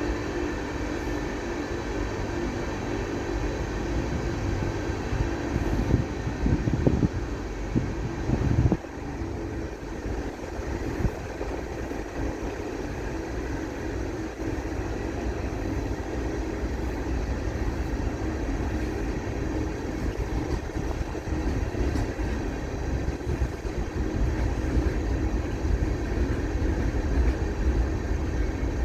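Freight train rolling past with a steady rumble of wheels on the rails, with a few louder knocks about six to nine seconds in.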